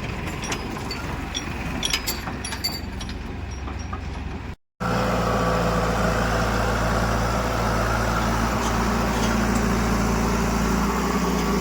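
Diesel engine of heavy machinery running steadily, with a few sharp knocks in the first three seconds. The sound drops out for a split second about four and a half seconds in, then the engine comes back louder and steady.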